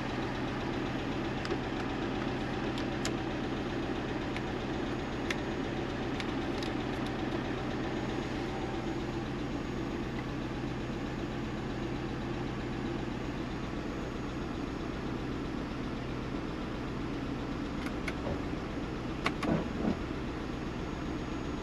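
1991 Mazda Miata's 1.6-litre inline-four idling steadily, freshly revived after sitting for over twelve years; the owner suspects a couple of vacuum leaks. A few light clicks sound over it, two louder ones near the end.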